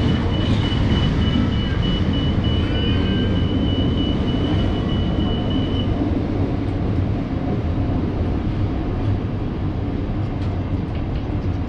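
Container freight train's wagons rumbling past on the rails, with a steady high squeal that stops about six seconds in. The rumble then eases slightly as the end of the train moves away.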